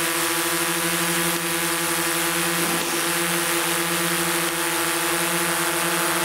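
Quadcopter drone hovering low, its propellers giving a steady hum at a constant pitch as their downwash fans a campfire.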